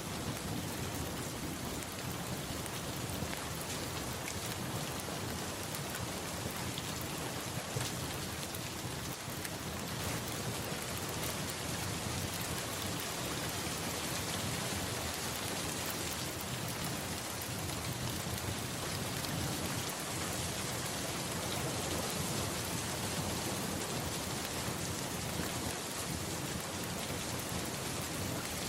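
Steady rain falling, an even, continuous hiss with a few scattered sharp ticks.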